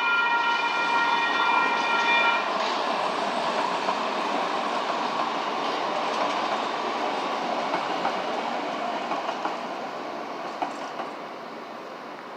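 Light rail train's horn held steady and cutting off about two seconds in, while the train rolls past with a loud rumble and rattle of wheels on rail, with a few sharp clicks. The noise eases and drops away near the end as the train clears the crossing.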